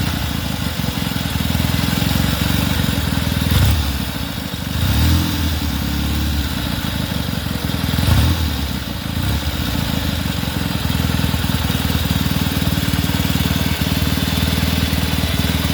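Velocette Twin motorcycle's 700cc parallel-twin engine, built from two 1930s 350cc KSS engines, running steadily, with a few brief rises in revs in the first half.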